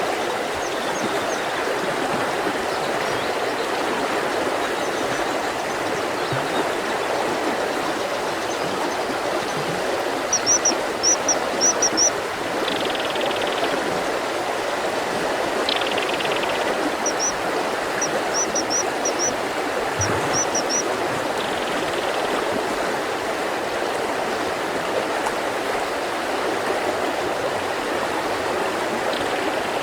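Mountain river flowing steadily, a constant rush of water. A small bird calls in quick runs of short, high chirps about ten seconds in and again about seven seconds later.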